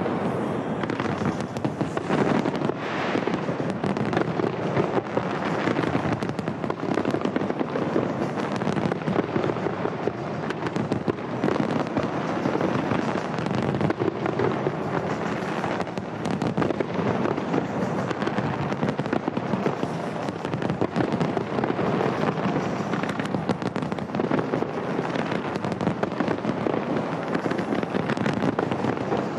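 Fireworks display in full barrage: many bursts and crackles running together without a break.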